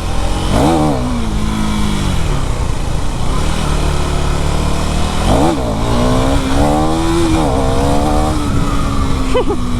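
KTM Duke 390 single-cylinder engine revving hard, once about half a second in and again about five and a half seconds in, then held at high revs: the throttle blips of a wheelie being pulled on the motorcycle.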